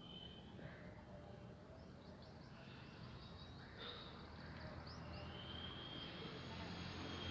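Faint outdoor background noise with birds chirping in short high strokes, and a thin high steady tone near the end.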